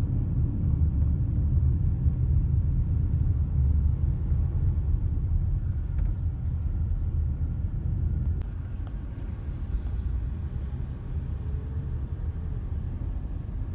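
Low rumble of heavy truck traffic, loudest over the first half and easing off after about eight seconds.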